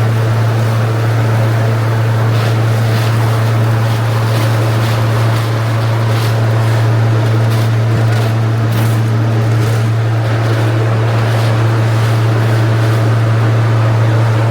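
Electric machine cracking roasted cacao beans and blowing the light shells away from the nibs, running with a loud steady hum and scattered rattling of beans and shell pieces.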